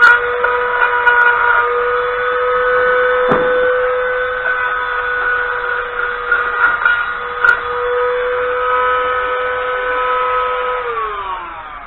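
Small electric power tool running at a steady speed with a high whine while cleaning rust off a steering rack, then spinning down, its pitch falling, near the end.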